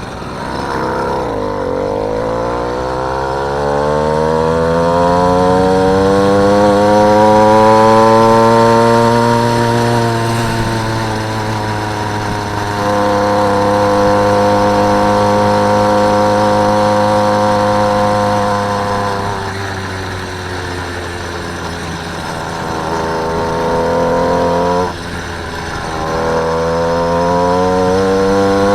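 Small engine of a motorised bicycle running under way. Its pitch climbs steadily for several seconds as it speeds up, then holds and eases off, drops suddenly near the end and climbs again.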